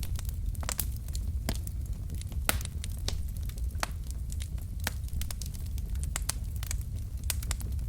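Logs burning in a fireplace, crackling with irregular sharp pops and snaps, several a second at times, over a steady low rumble.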